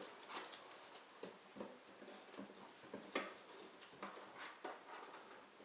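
Dog chewing and tearing at a cardboard shipping box, with faint, irregular taps and scrapes of cardboard.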